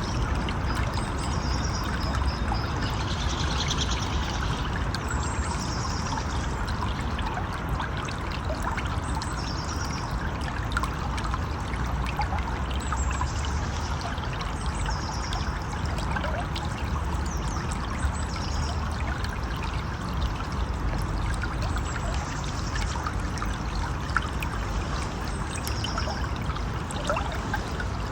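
River or stream water flowing and splashing steadily, with short high chirps recurring every few seconds over it.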